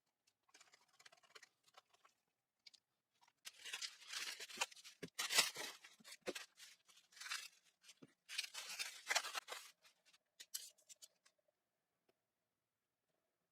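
Scratchy scraping and rubbing in irregular strokes and bursts, starting about three seconds in and dying away near the end.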